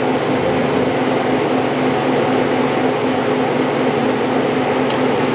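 Steady mechanical hum and whir of a running machine, with a steady low tone under an even rushing noise, typical of a commercial kitchen's fan or appliance.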